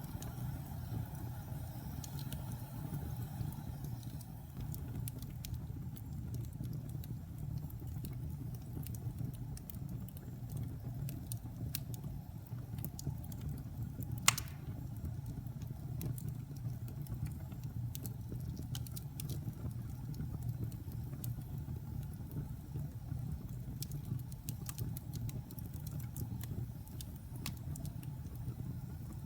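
Wood fire burning in a fireplace: a steady low rumble with frequent small crackles, and one sharp, loud pop about halfway through.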